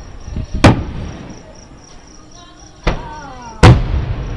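Aerial firework shells bursting about a mile away: three sharp booms, one under a second in, one near three seconds and one just after three and a half seconds, each trailing off in a rumbling echo. Crickets chirp in a steady pulse underneath.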